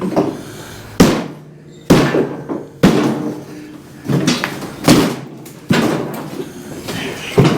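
A wooden shipping crate being knocked apart by hand: about six hard whacks a second or so apart, some followed by a brief ringing tone, with rattling of the loosened wood between them.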